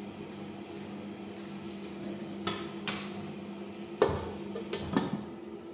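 Cooking pots, lids and utensils clinking and knocking about five times, spaced irregularly, over a steady low hum.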